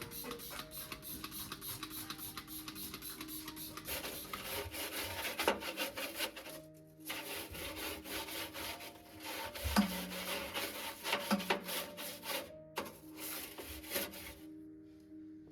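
Rubbing and scrubbing against a surface, an irregular scratchy sound with a few sharper knocks near the middle, over soft background music.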